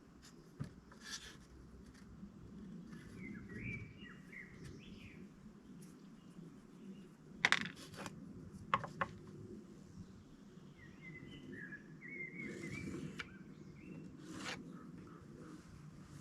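Small birds chirping in short, twittering phrases, with a few sharp knocks or clicks in between, the loudest about halfway through.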